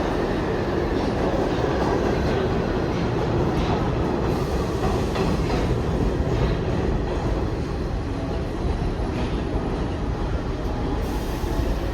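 New York City subway train running through the station: a steady rumble with scattered clicks of wheels over the rail joints, easing off slightly in the second half.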